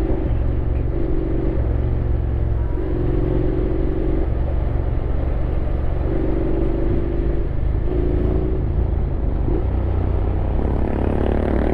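Honda X-ADV 750's parallel-twin engine running while riding, under a steady low rumble. Its note steadies into a held tone for about a second at a time, several times.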